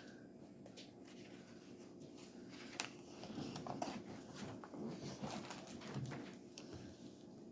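Faint room tone with scattered light clicks and soft knocks, a little busier in the middle.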